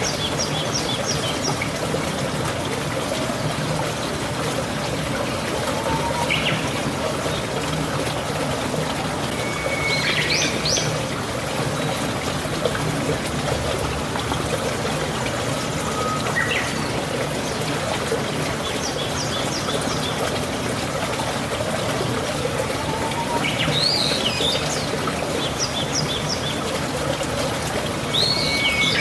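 Steady rain falling, with birds calling now and then through it: short whistled notes and quick runs of high chirps every few seconds.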